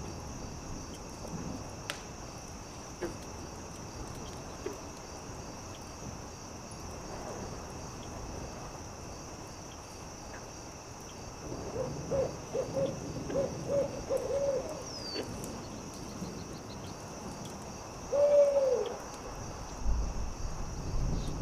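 An owl hooting: a quick run of about eight short hoots about halfway through, then one longer hoot that falls in pitch near the end, the loudest sound here. A steady chirring of crickets runs underneath, with faint scattered crackles of a campfire.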